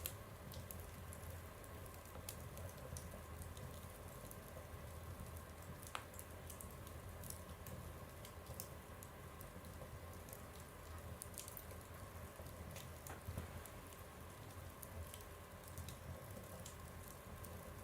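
Wood fire burning in a stove, with scattered small crackles and pops over a low steady hum, and a sharper pop about six seconds in.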